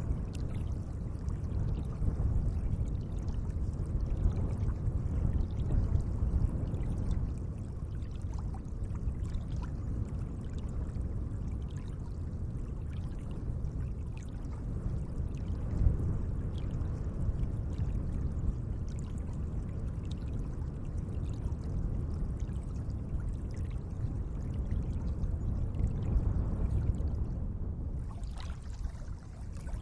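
Gentle lake water lapping and splashing, a steady low wash with faint small drips and splashes.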